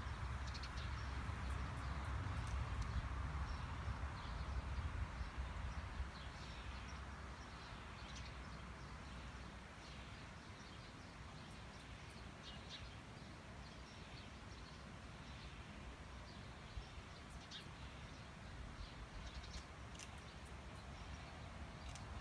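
Outdoor ambience with scattered short, high bird chirps over a steady background hiss, and a low rumble in the first several seconds that fades after about six seconds.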